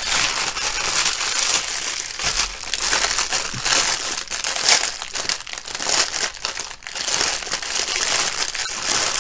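Clear plastic packaging crinkling steadily as hands handle and open a bag of small packets of diamond-painting drills, with many quick irregular crackles.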